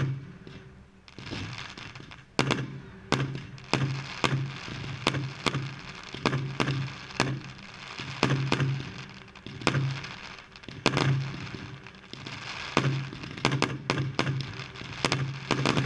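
Aerial fireworks bursting in quick succession: sharp bangs about one or two a second, starting about a second in, with a continuous crackle between the reports.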